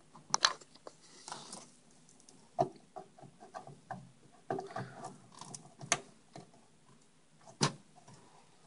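Power cables being handled and routed inside a PC case: scattered sharp clicks and light knocks with some rustling, four clicks louder than the rest.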